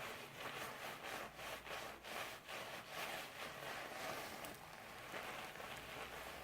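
Wet doll hair being washed and scrubbed by hand, a run of soft, wet rubbing strokes at about three a second.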